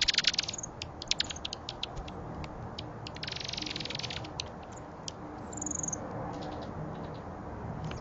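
Bird calls: a rapid, dry, high trill at the start and again about three seconds in, scattered sharp high chips between them, and a short high note near six seconds in.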